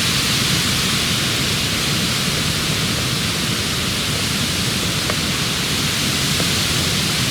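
A steady, even hiss of outdoor background noise, with no distinct sounds standing out.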